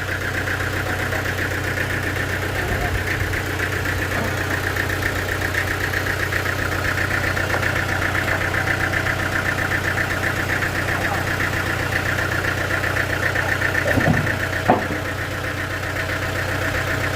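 Sawmill machinery running steadily, a constant engine hum with a fast even pulse, and a single sharp knock late on.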